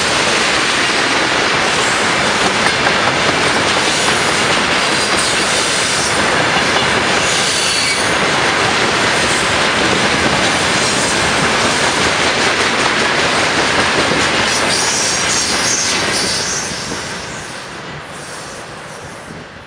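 Freight train of rail tank cars rolling past close by: steady wheel-on-rail noise from the wagons, fading away over the last few seconds as the end of the train passes.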